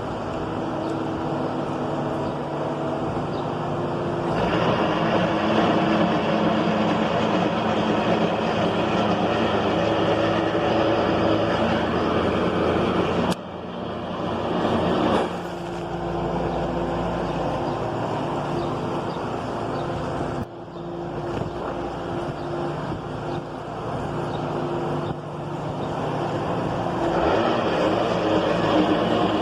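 Skid steer loader engine running under work, getting louder and higher about four seconds in as it is throttled up. The level drops sharply twice partway through.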